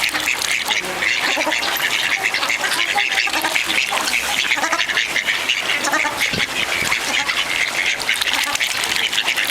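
A din of many birds calling at once, a dense, continuous chatter of short squawks and calls with no single voice standing out.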